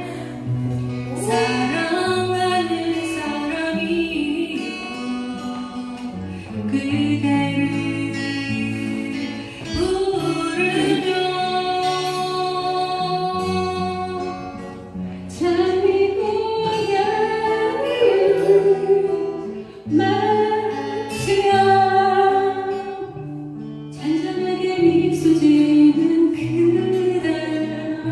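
Singing to acoustic guitar accompaniment, with a woman's voice prominent among the voices, the song running on in phrases.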